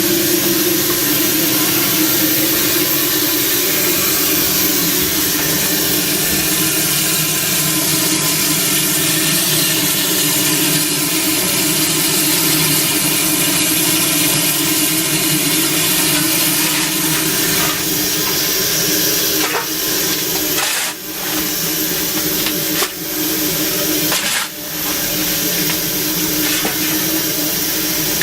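Steady, loud hiss of steam in the cab of an ALCO 2-8-0 steam locomotive, which the crew is running up to rebuild boiler pressure. The hiss drops briefly three times near the end.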